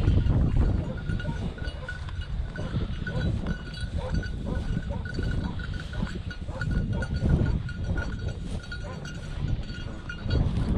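A small bell on a hunting dog's collar tinkling in quick, uneven strokes as the dog runs, over a low rumble.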